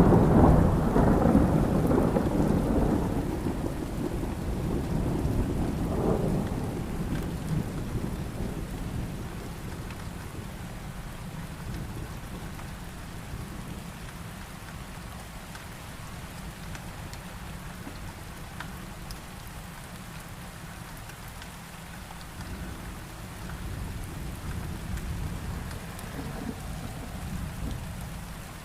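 Thunder rumbling over steady heavy rain: a loud low roll at the start dies away over several seconds, with a smaller rumble about six seconds in and a softer one near the end.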